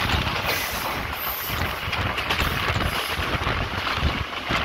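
Wind buffeting the microphone from a moving passenger train's window, over the steady rumble and rattle of the train running along the track.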